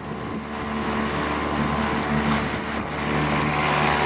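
Small boat's outboard motor running steadily, with water and wind noise.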